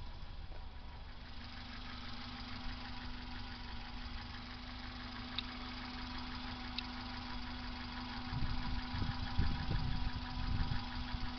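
BMW E21 316's four-cylinder engine idling warm, a steady hum with a fast even ticking. About eight seconds in, irregular low thumps rise over it for a few seconds.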